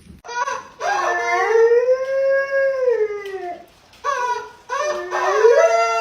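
A dog howling: two long howls, each rising and then falling in pitch, the second starting about halfway through.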